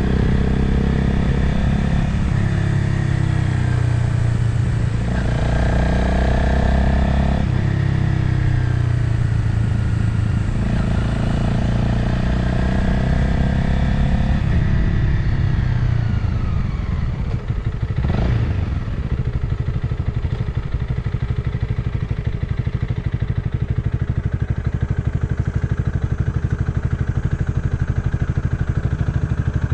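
Motorcycle engine heard from on the bike, pulling up through the revs twice and then easing off. After a short sharp sound about two thirds of the way in, it settles into a steady, even low-revving beat.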